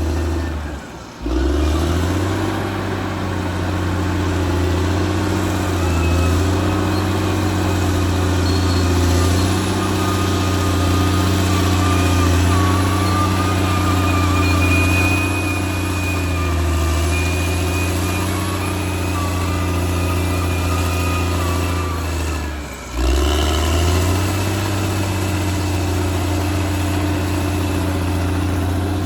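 Caterpillar D6R XL bulldozer's diesel engine running steadily at working speed, with a thin high squeal through the middle stretch. The sound drops out briefly twice, about a second in and again near 23 seconds.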